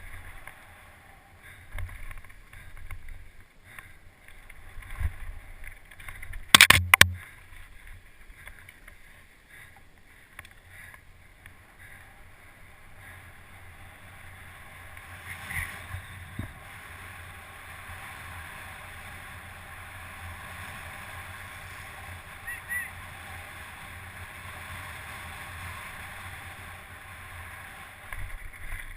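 Steady rushing noise, like wind buffeting the microphone, with two sharp knocks close together about seven seconds in.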